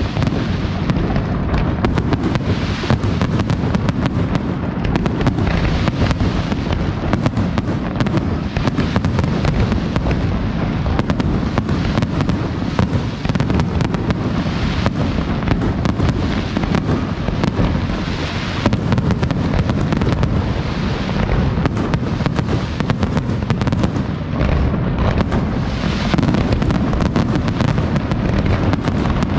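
Fireworks display: a dense, continuous barrage of bangs from bursting shells, many a second with no pause, with waves of crackling every few seconds.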